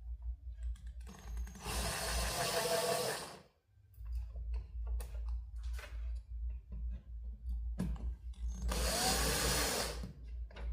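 Workbench repair sounds: scattered handling clicks over a low steady hum, with two bursts of a small power tool, each about a second and a half long.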